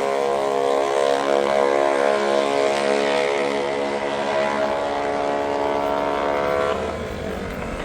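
Small single-cylinder minibike engine running at high revs under full throttle, then dropping off abruptly near the end as the throttle is let off.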